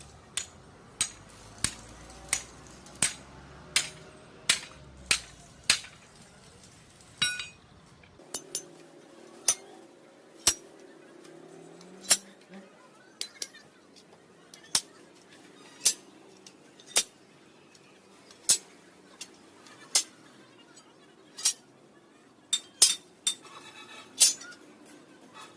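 Repeated sharp metallic strikes: a tool tapping metal, about one and a half a second at first, then slowing to about one a second, with a quick cluster of strikes near the end.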